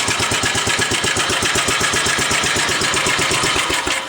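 1945 Gravely Model L walk-behind tractor's single-cylinder engine idling with an even beat, roughly ten firing pulses a second, having just started on its electric starter. It cuts out right at the end.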